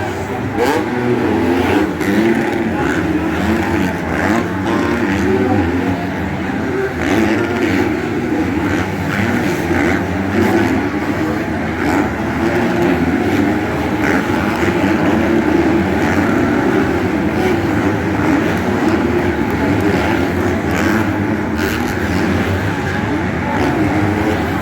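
Several motocross bikes racing on the track, their engines revving hard and shifting pitch as they rise and fall.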